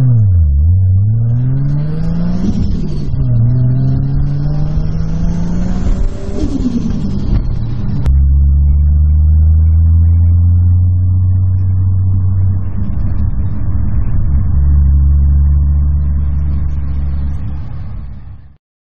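Toyota Supra's engine heard from inside the cabin, revving up and dropping back several times under hard acceleration and gear changes. About eight seconds in it changes abruptly to a steady drone at constant pitch, which fades out near the end.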